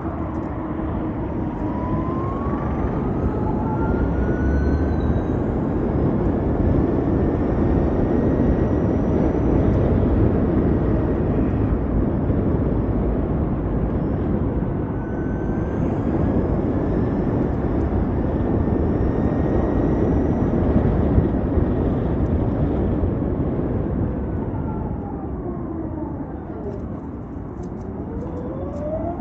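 Ather 450X electric scooter riding at speed: the electric drive's whine rises as it accelerates, holds high, drops away as the scooter slows near the end, then climbs again as it speeds back up. Heavy wind and road noise run under it.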